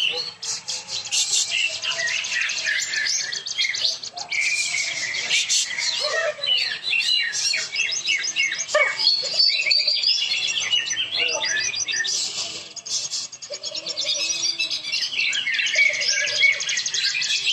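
Caged cucak ijo (green leafbirds) singing together in a contest round: dense, overlapping runs of fast chirps and trills with hardly a pause.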